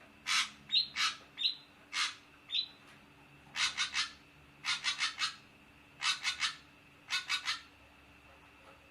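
Ashy drongo calling: a series of harsh, scratchy notes. The first half-dozen come singly, some with a short whistled tail. From about three and a half seconds in, they come in four quick groups of three.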